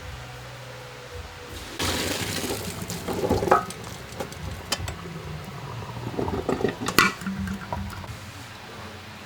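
Water splashing, with a few sharp clinks and knocks of dishes, loudest about three and a half seconds in and again near seven seconds.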